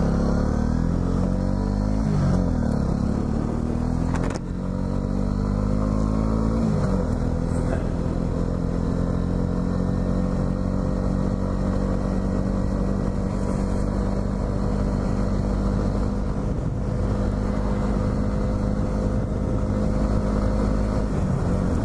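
Honda CB125R's single-cylinder engine pulling up through the gears. The revs rise and drop at shifts about two, four and a half and seven seconds in, then hold steady at cruising speed.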